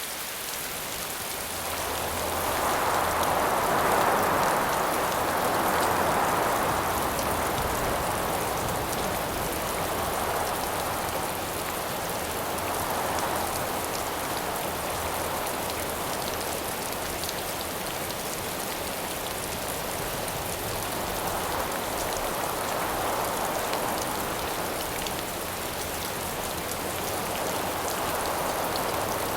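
Steady rain pattering, with gusts of wind that swell and fade several times. The strongest gust comes a few seconds in.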